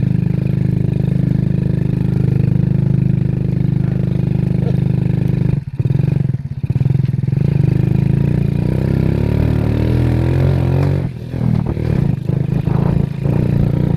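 Excavator's diesel engine running steadily at a low pitch, with two brief breaks about five and a half and six and a half seconds in, then its pitch wavering up and down in the second half.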